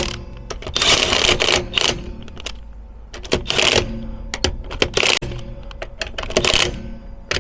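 Impact gun hammering the wheel bolts tight, in several short rattling bursts with brief pauses between.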